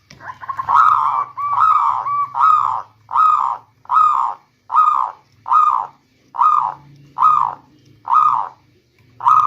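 Zebra dove (local perkutut) cooing: a quick run of short notes at the start, then a steady series of separate rounded coos, about one every second.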